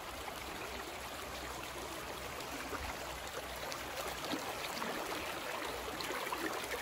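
A creek's water running steadily, an even rush of flowing water.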